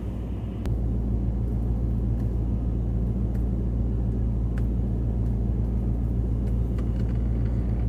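Steady low rumble of a vehicle engine, stepping up slightly in level a little under a second in and then holding even, with a few faint clicks over it.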